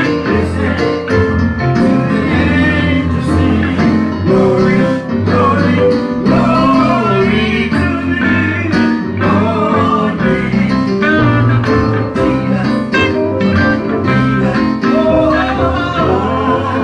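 Live church music: singing over electric guitar, bass and drums.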